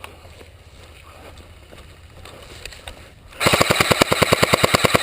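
Airsoft gun firing a fully automatic burst of BBs, a rapid even rattle of about fourteen shots a second, starting about three and a half seconds in and lasting under two seconds.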